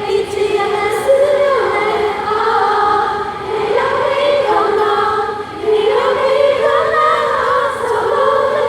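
Large crowd of fans singing a song together in unison, a mass of mostly female voices, in long sung phrases with brief breaks between them.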